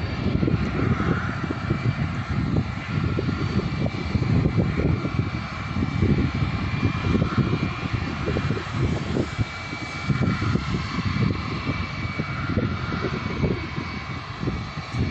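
Airliner engines running steadily, a faint high whine over a broad roar, heard through heavy gusty wind buffeting the microphone.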